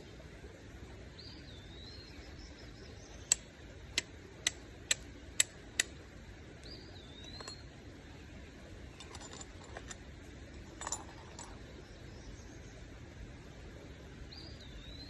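Flint struck against a steel striker: six sharp clicks in quick succession, about two a second, followed by a few fainter taps and scrapes. A bird gives a short curling whistle three times.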